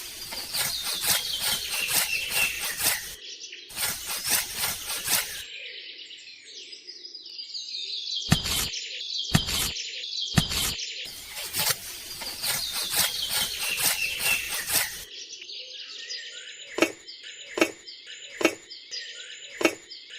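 Birds chirping and twittering in quick falling chirps. Three sharp knocks come about halfway through, and a regular tapping, roughly one tap every half second to second, runs through the last few seconds.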